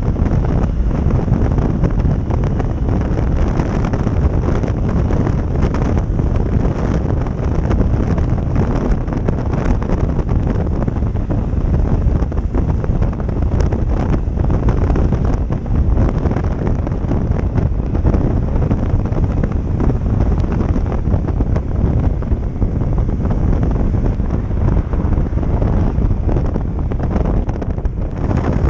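Steady, loud wind rushing over the microphone of a motorcycle on the move, with the bike's running and road noise underneath.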